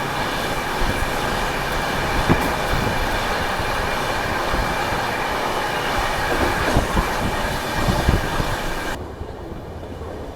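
Express passenger train running along the track: steady rolling noise with wheels clattering over rail joints and a faint steady squeal above. About nine seconds in the sound drops abruptly to a quieter, duller rumble.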